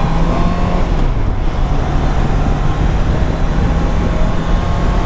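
Motorcycle engine running on the move under a steady rush of wind and road noise; its note dips briefly about a second in, then settles back.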